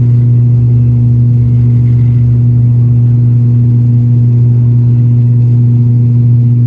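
An ATR 72-600's turboprop engines and propellers at takeoff or climb power, making a loud, steady drone with an even low hum that does not change.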